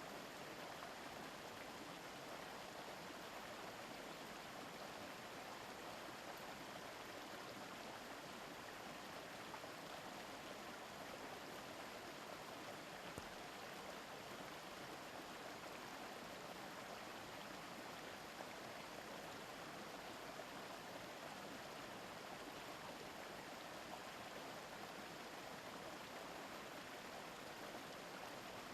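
A shallow stream babbling steadily over rocks.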